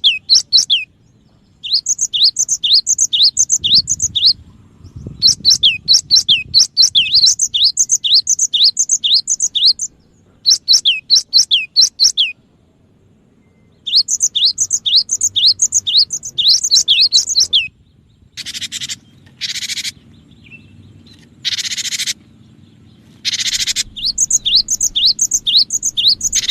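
Cinereous tit (gelatik batu) calling in bursts of quick, high, downward-slurred notes, several notes a second. About two-thirds of the way in, four harsh, rasping calls break in before the quick notes resume.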